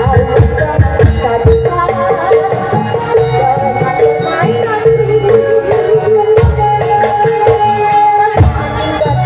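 Loud traditional Indonesian folk music: hand drums beating a busy rhythm under a melody held on a steady high note, with wavering ornaments above it.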